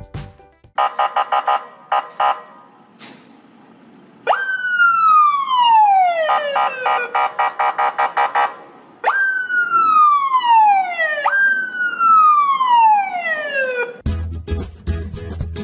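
Police siren wailing three times, each wail jumping up sharply and then falling in pitch over about two seconds, with a pulsing electronic tone between the first two. A shorter pulsing tone sounds in the first couple of seconds.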